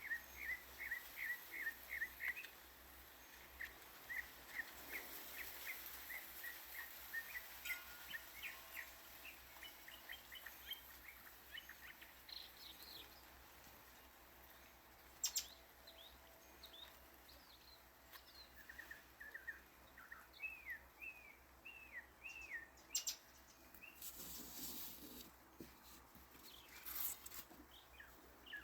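Wild birds chirping and calling: a quick series of short chirps in the first few seconds, then scattered calls, and a run of downward-slurred chirps about twenty seconds in. A few brief clicks and rustles come through now and then.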